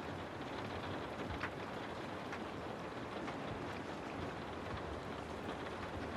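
Steady rain ambience, an even hiss of rainfall with scattered sharper ticks from individual drops.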